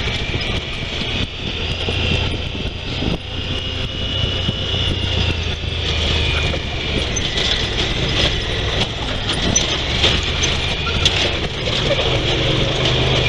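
Honda Pioneer 1000 side-by-side UTV's 999 cc parallel-twin engine running steadily as it drives over a rough rocky track, with a few sharp knocks from the machine jolting over rocks.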